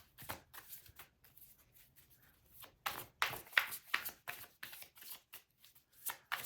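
A deck of tarot cards being shuffled by hand: a run of quick papery flicks and slaps, sparse and soft at first, then busier and louder from about halfway.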